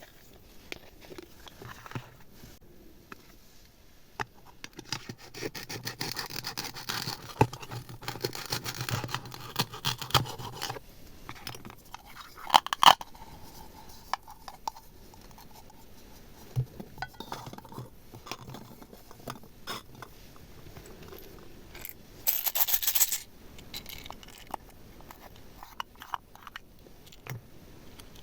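Small objects scraped and rubbed on a hard surface, with scattered clicks and taps and a short sharp rasp near the end.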